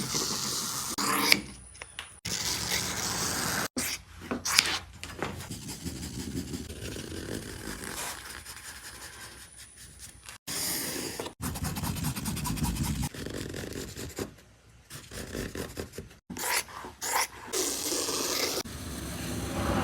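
Scraping and rubbing sounds of hands and tools working on upholstery, in short clips that start and stop abruptly.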